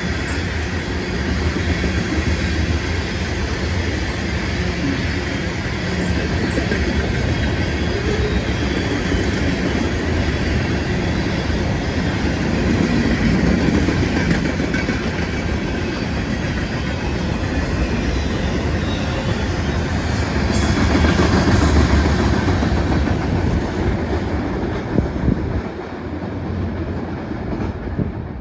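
A train rolling past, its cars running steadily over the rails; the sound drops somewhat near the end.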